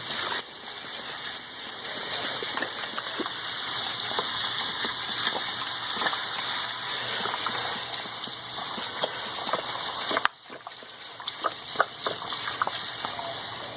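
Coca-Cola gushing from a bottle into a tub of engine parts in a steady pour. The pour stops about ten seconds in, leaving a quieter faint crackle of scattered small ticks.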